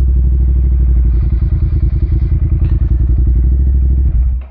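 Ducati Monster 1200's L-twin engine idling with a steady, lumpy pulse, then switched off near the end, so the sound cuts away suddenly.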